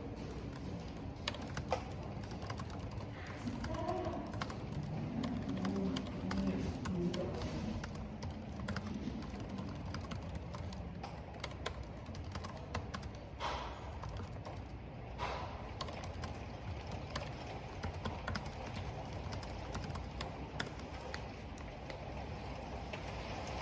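Typing on a computer keyboard: a steady patter of key clicks with a couple of sharper strokes midway, over a continuous rush of wind and rain.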